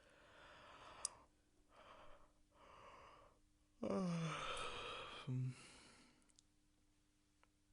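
A person yawning: a few breathy drawn breaths, then about four seconds in a loud voiced yawn whose pitch falls, ending with a short low grunt before it fades.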